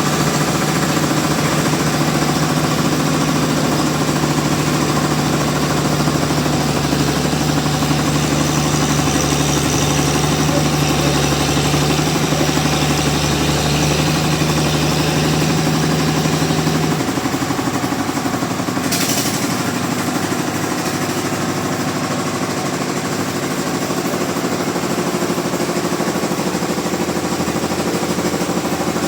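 Sawmill machinery running steadily with a dense mechanical clatter. A low steady hum cuts out about two-thirds of the way through, and a short hiss follows a couple of seconds later.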